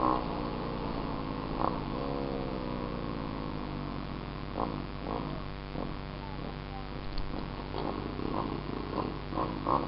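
Small dirt bike engine running at idle, its pitch sagging and recovering, with short throttle blips and a quicker run of revs near the end.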